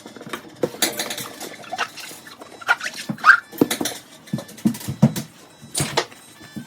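Dishes, pots and cutlery clattering and knocking while being washed up and set down, with a brief high squeak a little over three seconds in.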